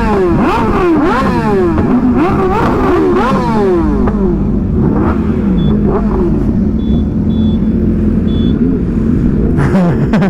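Motorcycle engine revving up and dropping back several times in quick succession, then running at a steady cruise, with a low wind rumble underneath.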